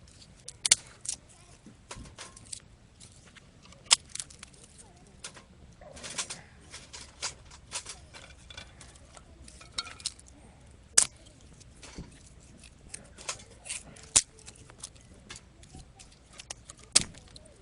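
Small wood fire crackling in a compact folding stove, with irregular sharp pops, a few of them loud.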